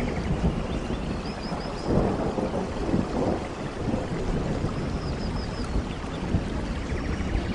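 Steady heavy rain with a low rolling rumble of thunder that swells about two seconds in. A faint run of high chirps can be heard twice over the rain.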